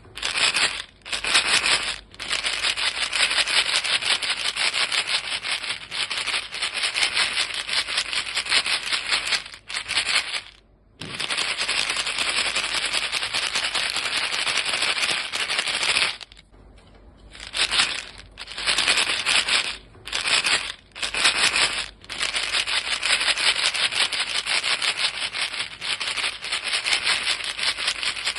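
A small box of chewing-gum pellets shaken continuously, the pellets rattling fast against the box. The rattle is broken by a few short pauses, the longest a little past halfway.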